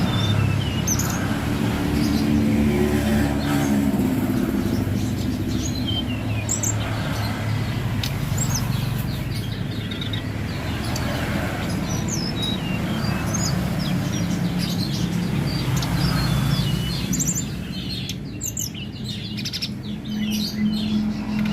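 A tledekan gunung songbird singing actively, with short high chirps and whistled notes coming in scattered phrases throughout, over a steady low rumble.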